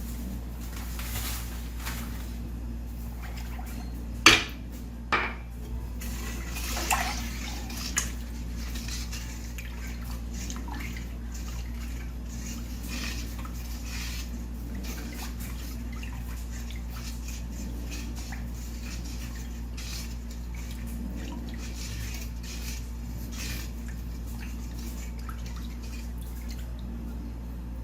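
A cup and utensils knocking and clinking against a pot as sugar is scooped and poured in, with several sharp knocks in the first eight seconds. Quieter scraping and small clicks follow over a steady low hum.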